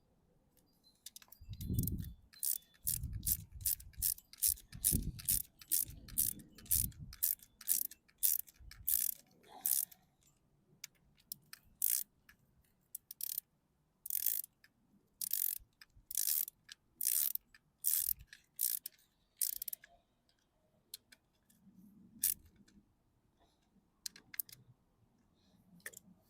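Hand ratchet with a 7 mm socket clicking in quick, even strokes while driving screws into a plastic carburetor by hand. The clicks come in two runs, about three a second for the first ten seconds, then slower and louder after a short pause.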